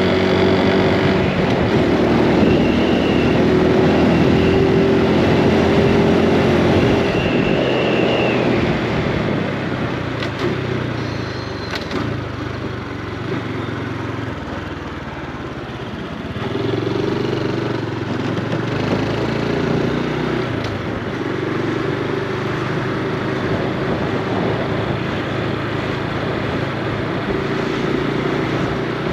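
Honda Super Cub C125's single-cylinder four-stroke engine running as the bike rides, with road and wind noise. The engine note drops away about eight seconds in and picks up again a little past halfway.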